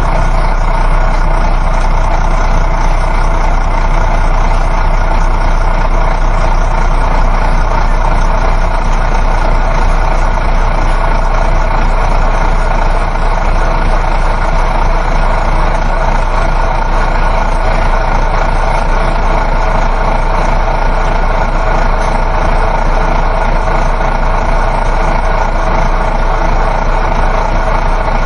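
Coach bus interior ambience while driving: a steady low engine drone mixed with road and tyre noise, heard from inside the passenger cabin.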